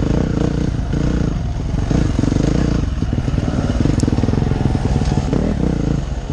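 Enduro dirt-bike engine running, its revs rising and falling a little under the throttle.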